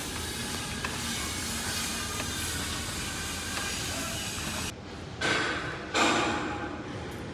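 Steady, loud hiss that cuts off about two-thirds of the way in, followed by two short, louder blasts of hiss a little under a second apart.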